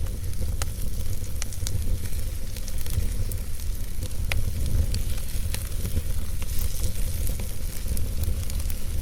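Wood fire in a fireplace burning steadily: scattered sharp crackles and pops of burning logs over a steady hiss and a low rumble.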